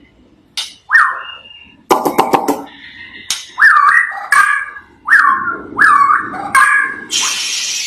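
White-rumped shama (murai batu) singing in rapid, repeated 'trotol' phrases. A quick rattle of clicks comes about two seconds in, then a run of short, sharply rising whistled notes, and a harsh rasping call near the end.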